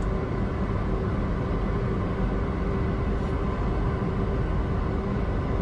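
Steady rush of airflow and engine noise on the flight deck of a Boeing 737-800 on final approach, with a faint steady hum beneath it.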